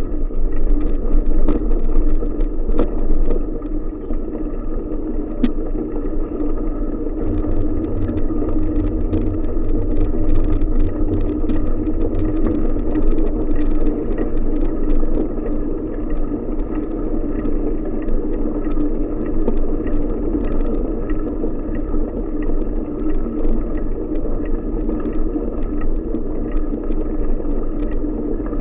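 Steady wind and rolling rumble from a bicycle being ridden, with many small rattles and clicks throughout. A deeper hum joins from about seven to twelve seconds in.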